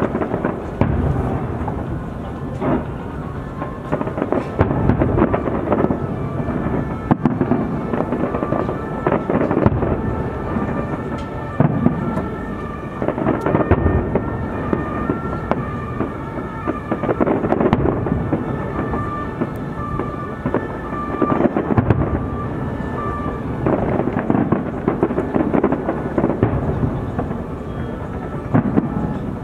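Fireworks display: a dense, continuous barrage of booming shell bursts and crackling, one burst after another with no pause.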